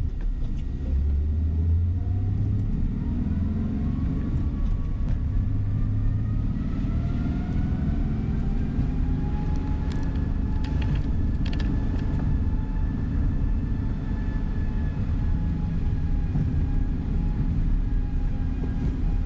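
Tour coach's engine and road noise heard from inside the cabin while the bus drives: a steady low rumble, with a faint whine that rises in pitch for a few seconds and then holds steady, and a few light clicks near the middle.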